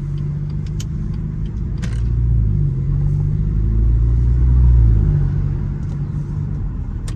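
BMW 330i's 2.0-litre turbocharged B48 four-cylinder on a Stage 1 tune, heard from inside the cabin while driving: a low engine drone that grows louder over a few seconds of light acceleration, peaks about five seconds in, then eases off.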